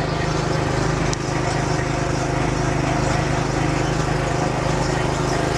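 A small engine running steadily at a constant pitch, an even drone with no change in speed.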